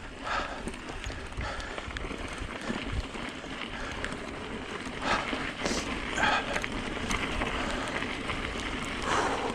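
Hyper 29er mountain e-bike riding down a wet dirt trail: steady noise of the tyres rolling over the dirt, with louder bumps about five, six and nine seconds in.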